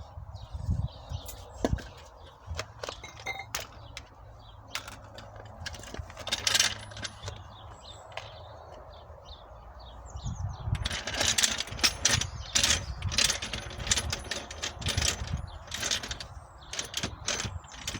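Tools being handled: a series of metallic clinks, clicks and knocks, scattered at first and coming thick and fast in the second half.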